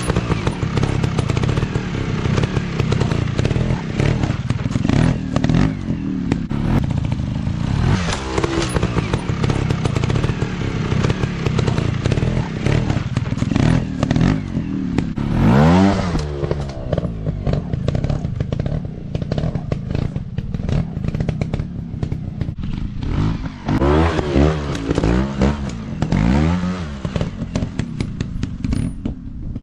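Motocross dirt bike engines running and being revved up and down repeatedly, with clattering and knocking mixed in.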